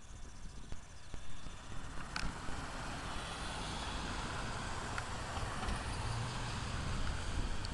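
Rolling thunder building up over the first couple of seconds into a steady low rumble with a hiss above it.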